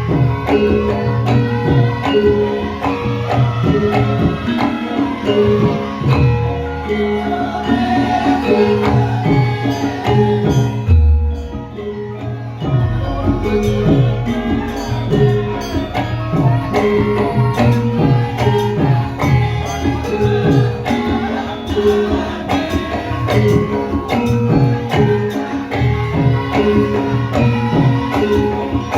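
Javanese gamelan music for a lengger dance: hand drums and tuned metal percussion playing a dense, steady rhythm, with a deep low stroke about eleven seconds in.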